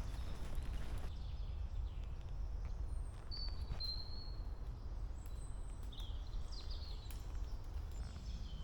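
Small birds giving a few short, high chirps and whistles, over a steady low rumble.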